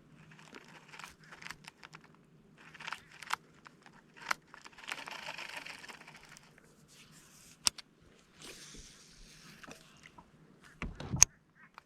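Handling noise from a kayak angler: scattered sharp clicks and rustling, with a louder knock against the kayak about 11 seconds in.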